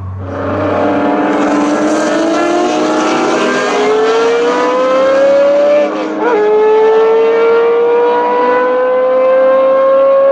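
Racing car engine at full throttle, its pitch climbing steadily, with one upshift about six seconds in before it climbs again.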